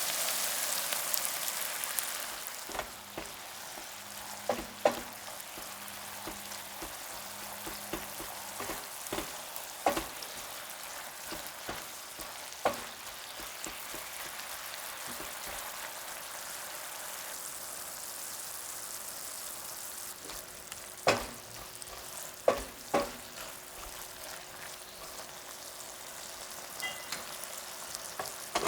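Food sizzling in a frying pan while it is stirred, with occasional sharp clicks of the utensil against the pan. The sizzle is loudest in the first two seconds, then settles to a steady lower hiss.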